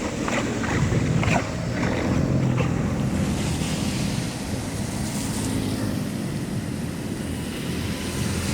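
Steady rush of water, with a few short splashes or knocks in the first three seconds, and wind buffeting the microphone.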